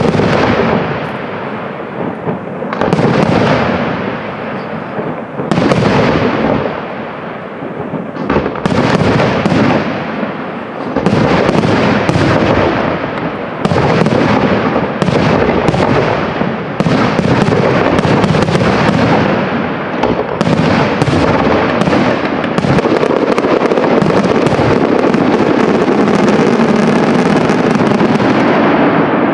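Aerial firework shells launching and bursting in a professional display. The bangs come a second or more apart at first, then faster and faster until they are nearly continuous in the last several seconds: the display's finale.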